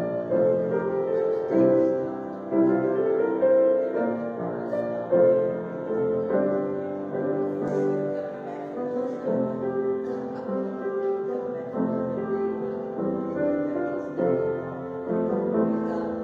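Piano music: a slow piece of held chords that change every second or so.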